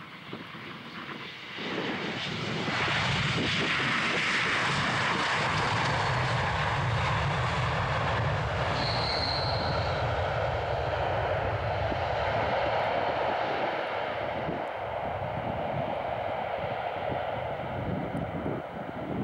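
Jet engines of an Aeroflot Airbus A321 passing by on landing approach. The roar builds about two seconds in, holds loud, then slowly fades away, with a brief high whine near the middle.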